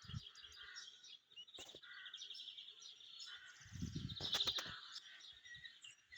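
Small songbirds chirping and trilling continuously in a dense morning chorus. About four seconds in a short low rumble with a few sharp clicks rises briefly over the birdsong.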